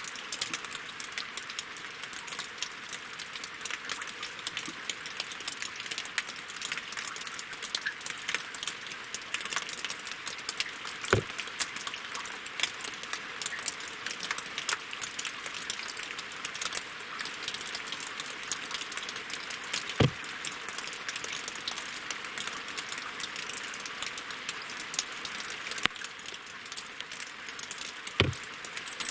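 Steady rain falling on lake water and wooden logs: a dense patter of drops, with three louder, deeper drops at about 11, 20 and 28 seconds in.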